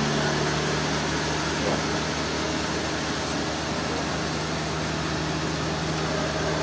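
Sawmill machinery running steadily: a constant low engine hum over an even mechanical noise.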